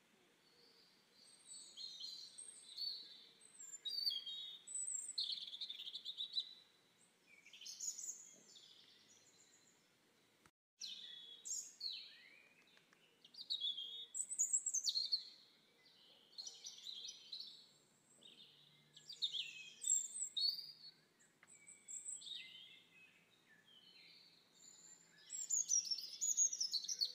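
Songbirds singing: a busy run of high chirps and whistled phrases, many sweeping down in pitch, with a brief break in the sound about ten seconds in.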